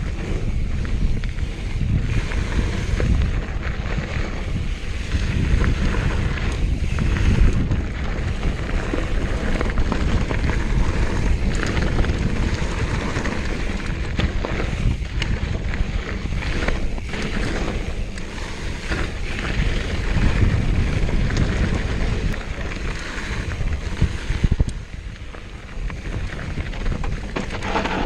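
Wind buffeting the microphone over the steady rumble of a mountain bike riding a dirt trail, with scattered knocks and rattles from the bike.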